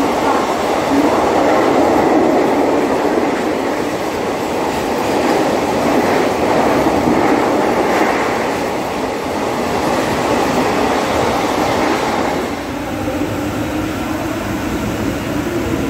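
A passenger train passing at speed alongside a platform, with a steady, dense noise of wheels on rails. About twelve and a half seconds in, it cuts off abruptly to quieter platform ambience.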